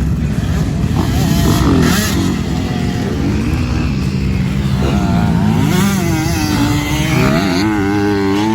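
Motocross dirt bike engine running hard, its revs rising and falling repeatedly as the bike is ridden around the track.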